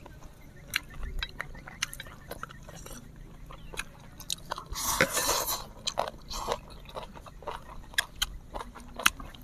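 Close-miked chewing and biting of instant noodles and seafood, with many short wet mouth clicks and smacks, and a louder slurp of noodles about five seconds in.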